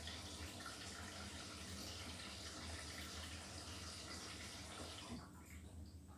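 Beko WTK104121W washing machine taking in water: a steady hiss of running water over a low hum, which cuts off about five seconds in as the fill stops.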